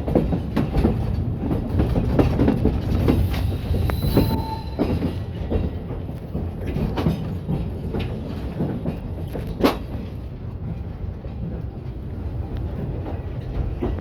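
Train running on the rails, wheels rumbling and clattering irregularly over the track, with a sharp knock about ten seconds in.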